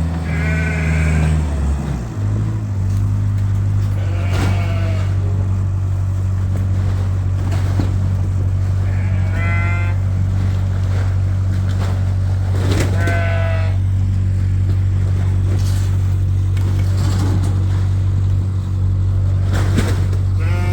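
A tractor engine runs steadily and its speed drops about two seconds in. Sheep bleat six times over it.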